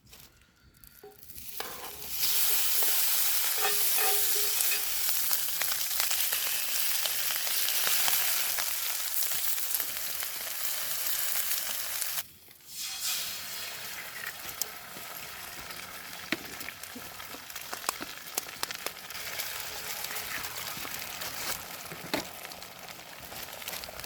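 Food frying in a pan over a campfire: a steady sizzling hiss with many small pops and spatters. It swells up over the first couple of seconds, breaks off briefly about halfway, then goes on a little quieter.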